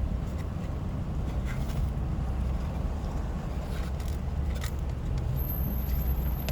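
Steady low rumble of a vehicle engine idling, with a few faint short clicks.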